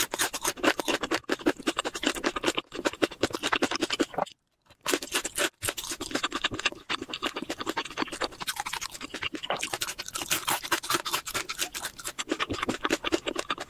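Close-miked chewing of crispy fried chicken: a rapid, continuous crackle of crunches from the fried batter, breaking off briefly about four and a half seconds in.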